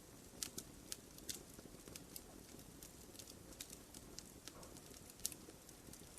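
Wood fire in a fireplace crackling, with frequent irregular sharp pops and snaps over a soft steady hiss of the burning logs.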